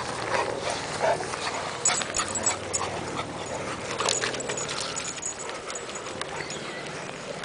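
A pug dog making sounds, amid scattered clicks and knocks.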